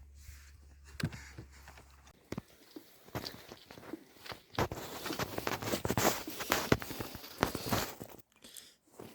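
Footsteps with irregular crunching and rustling, getting busier in the second half. A low steady hum stops about two seconds in.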